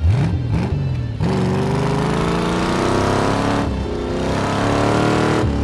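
Engine of a stripped-down 1985 C4 Corvette race car accelerating hard on track, its pitch climbing. It drops briefly near the middle as it shifts up, then climbs again. Background music plays underneath.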